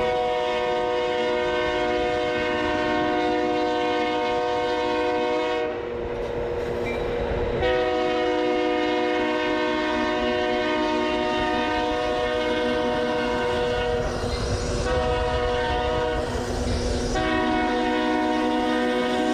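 Diesel locomotive's multi-chime air horn sounding a chord in the grade-crossing pattern: two long blasts, a short one, then a long one, over the rumble and clickety-clack of the passing train.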